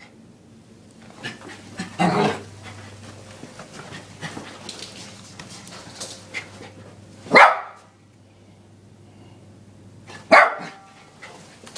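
Small Lhasa Apso x Maltese puppy barking in short single barks: three loud ones, about two seconds in, about seven seconds in and near the end, with a few softer yips between.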